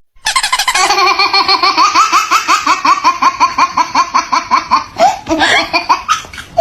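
High-pitched laughter: a rapid run of short rising 'ha' sounds, about five a second, that stops abruptly near the end.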